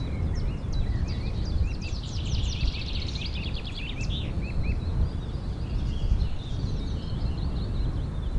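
Small birds chirping, many quick high chirps that crowd together about two to four seconds in, over a steady low rumble.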